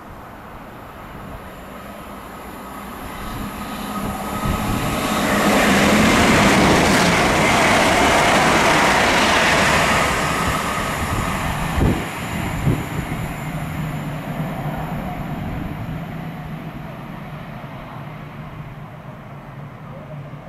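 A train passing along the main line, its noise building over a few seconds, loudest for several seconds in the middle, then slowly fading, with two sharp knocks just after the loudest part.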